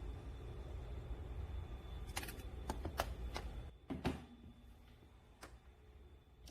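Handling sounds while working on a food waste disposer: several sharp clicks and knocks over a low rumble that stops about four seconds in.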